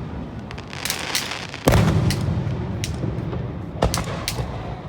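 Aerial fireworks shells bursting: about six sharp cracks and booms, the loudest about one and a half seconds in, each trailing off in a low rolling rumble.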